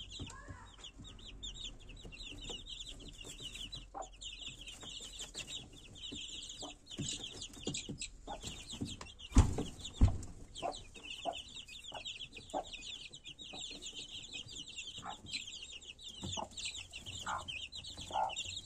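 A brood of young chicks peeping continuously in rapid, high chirps, with the mother hen giving short, lower clucks every second or two. Two sudden dull thumps come about halfway through.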